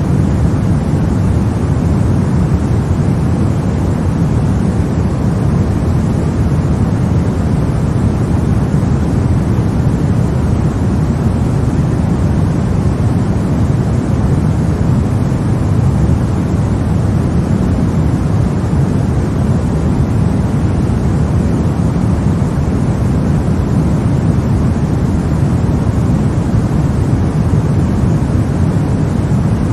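Continuous white noise played to lull a baby to sleep: a steady, deep rushing hiss, heaviest in the low end, that never changes.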